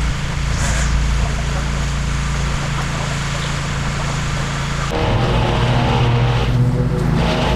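Engine running steadily, its pitch changing abruptly about five seconds in.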